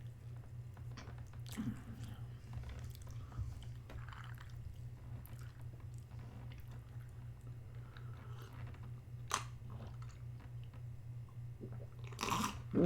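A person chewing a chicken burger and fries close to the microphone: soft mouth noises and scattered crunches, a sharp click about three quarters of the way through, and a louder burst near the end, over a steady low hum.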